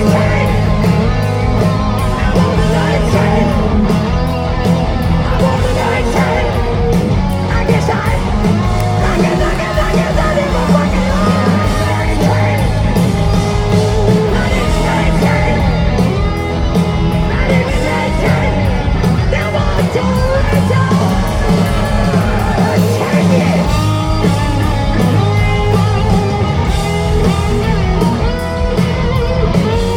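Hard rock band playing live, with electric guitars, bass, drums and a singer.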